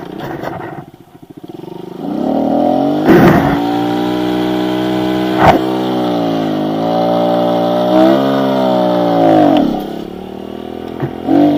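Kawasaki KLX110 pit bike's single-cylinder four-stroke engine revved hard and held high for a burnout. It comes in about two seconds in, runs for about seven seconds with a couple of sharp knocks, then the revs drop away near the end.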